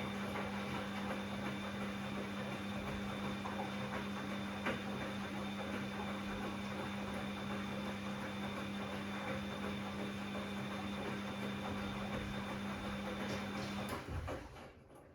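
Bosch Classixx 6 washing machine running through its first rinse: a steady mechanical hum with a constant low tone that cuts off suddenly near the end.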